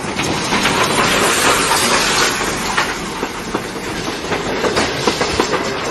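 Passenger train passing close by on rail track: a steady loud rush of wheels on the rails with a dense, irregular clatter running through it.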